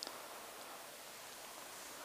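Faint steady hiss of background noise with no distinct sound in it, apart from a tiny click at the very start.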